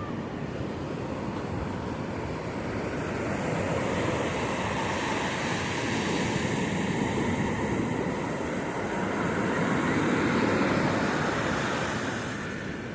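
Sea waves washing onto a beach, the surf rising and falling in slow swells a few seconds apart.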